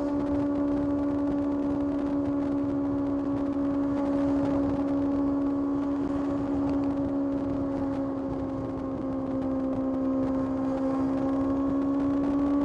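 Kawasaki ZX-6R's inline-four engine running at steady, fairly high revs under way. Its pitch sags a little past the middle and climbs again near the end.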